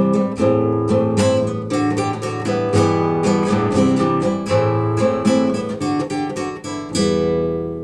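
Acoustic guitar strummed in a steady rhythm, ending on a final chord about seven seconds in that is left to ring out.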